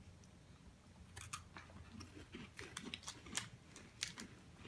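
A person chewing a crisp chocolate-coated peanut butter wafer bar: faint, irregular crunches starting about a second in.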